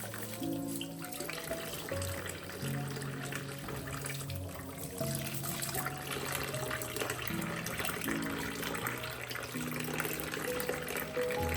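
Water running from a tap into a sink, under soft background music with slow held notes.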